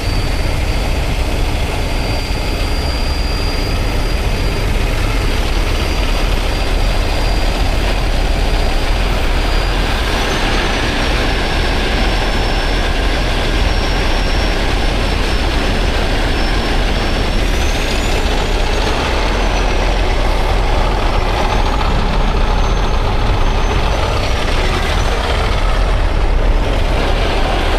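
Heavy truck engine running steadily, with a thin high-pitched whine that rises and falls in the second half.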